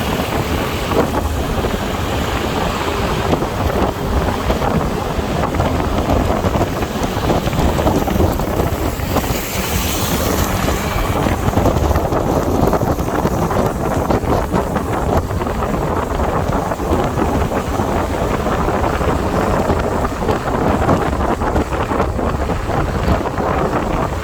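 Wind rushing over the microphone of a moving motorbike, mixed with steady engine and road noise. A brief higher hiss rises and falls about ten seconds in.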